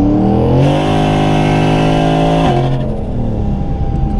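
Single-turbo Ford Mustang V8 pulling hard at full throttle, heard from inside the cabin. The revs climb, then hold nearly steady for about two seconds. Two and a half seconds in the throttle is lifted and the revs drop suddenly, then fall away.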